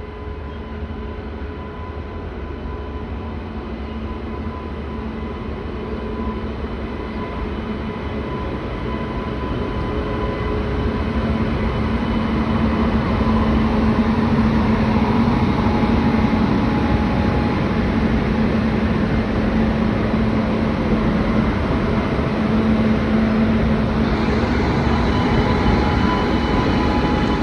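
A pair of WAG-9H electric freight locomotives running, a steady mechanical hum with several fixed tones over a rumbling rail noise. It grows louder over the first dozen seconds or so, then holds steady.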